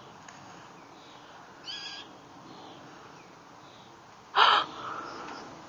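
Adult blue jay giving two short, harsh calls. The first is fainter, about two seconds in, and the second is much louder, a little past four seconds.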